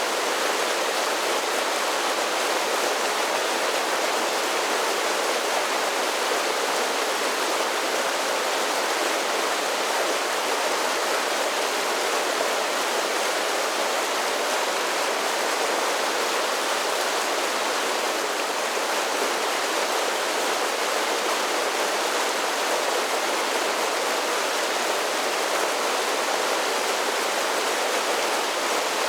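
A series of small waterfalls on a mountain creek, water cascading over rocks in a steady, even rush. The sound sits mostly in the middle and high range, with little low rumble.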